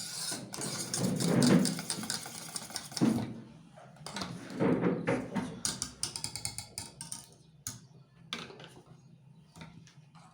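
Thickened pastry cream being stirred in a saucepan: a utensil scraping and tapping against the pan in quick strokes, busiest in the first three seconds, then sparser clicks and taps.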